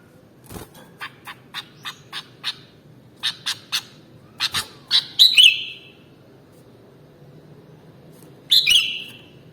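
Sooty-headed bulbul calling: a run of short, sharp chips, about three a second, then a louder phrase of whistled notes about five seconds in and another near the end.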